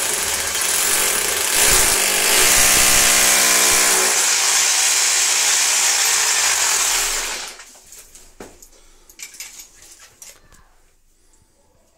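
Electric rotary hammer drill running as it bores a mounting hole into the wall, then stopping about seven and a half seconds in. A few faint knocks follow.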